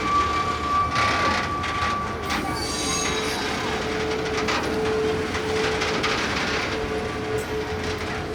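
A train rolling slowly along depot track, with steady wheel squeal and a few clacks of the wheels over rail joints.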